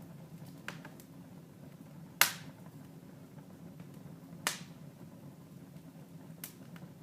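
Wood fire in a fireplace crackling, with four sharp pops spread a couple of seconds apart, the loudest about two seconds in, over a faint steady low hum.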